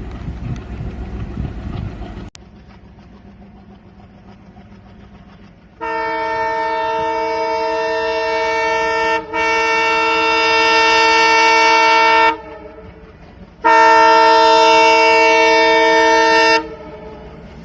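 WDM diesel locomotive's horn sounding three long, loud blasts of about three seconds each, the first two nearly run together, over a low rumble. Before the horn, a heavier rumble cuts off abruptly about two seconds in.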